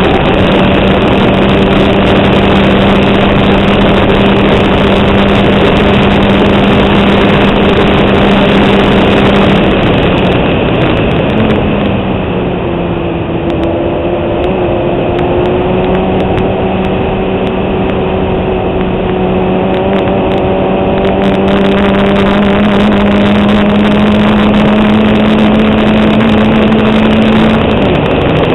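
Fiat 127 Abarth's small four-cylinder engine working hard on track, heard from a camera on the car: a steady high engine note for about ten seconds, then the revs drop and dip briefly before climbing slowly and steadily again, falling off once more near the end.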